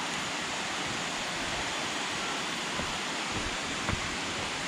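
Steady rushing of water from the Sungai Pandan waterfall, with one brief knock about four seconds in.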